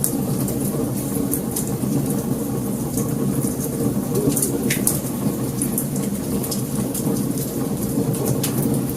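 Wood fire burning, with irregular sharp crackles and pops over a steady low rumble of flames.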